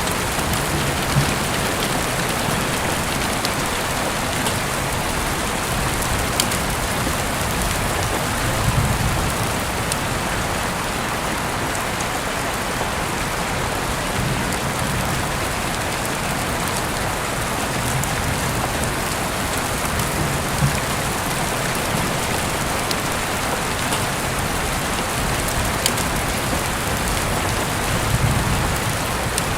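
Heavy rain falling steadily: an even hiss, with scattered louder drop taps and a few soft low thuds every several seconds.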